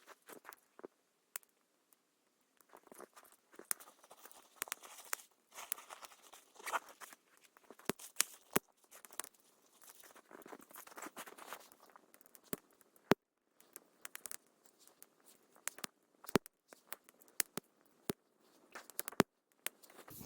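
Wood campfire crackling, with sharp pops scattered irregularly among softer rustling crackle.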